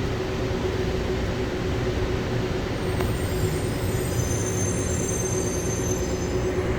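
Inside a Bombardier CX-100 people-mover car: a steady rumble and hum, with a high-pitched squeal starting about three seconds in and fading out near the end.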